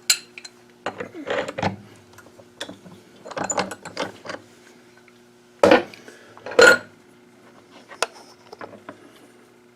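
Metal tools and workholding being handled as a milled part is freed from the setup: scattered clicks, scrapes and clunks, with two loud knocks a little over halfway through, over a faint steady hum.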